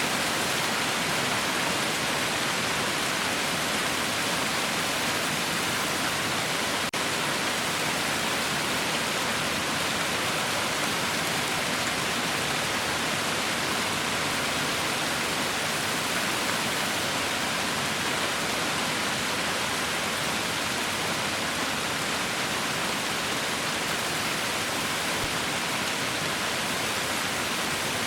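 Heavy rain falling steadily, a dense even hiss with no single drops standing out, broken only by a momentary dip about seven seconds in.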